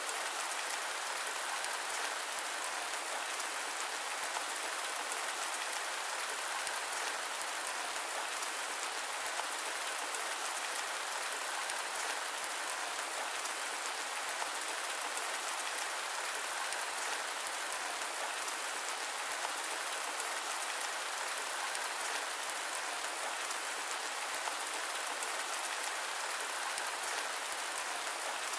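Steady rain falling, a dense patter of drops in an even hiss that does not change.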